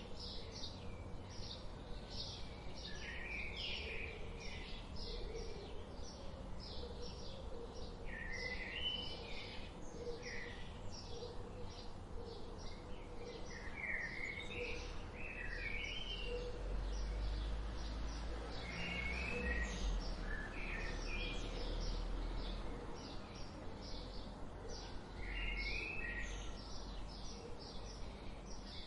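Birds chirping: a steady stream of short, high chirps and quick twittering phrases over a low background noise that swells into a rumble in the middle.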